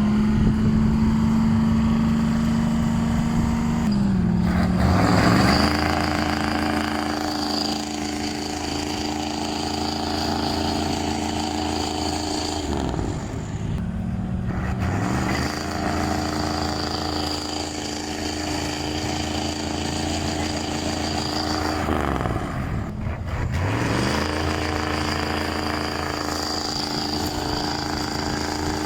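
Diesel truck engine working hard under load. Its pitch rises about four seconds in, then twice sags and recovers, as the engine bogs down and picks up again during the pull.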